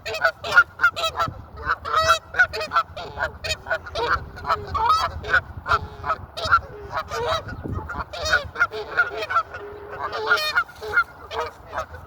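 A flock of birds calling over one another without pause, several short calls a second.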